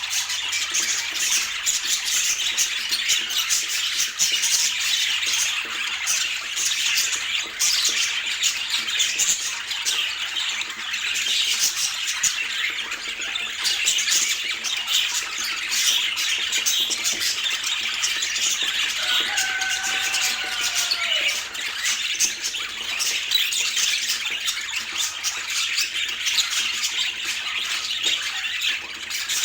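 Budgerigars chattering continuously in rapid, high warbles and chirps, with one lower, drawn-out call that falls at the end about two-thirds of the way through.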